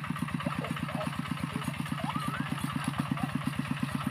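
Small engine idling steadily, with an even low thudding of about ten pulses a second.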